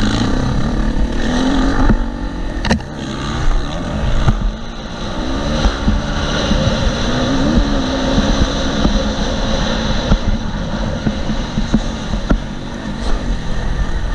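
KTM SXF 250 four-stroke single-cylinder dirt bike engine revving up and down while being ridden on a motocross track, with wind buffeting the helmet-mounted microphone. A couple of sharp knocks come about three and four seconds in.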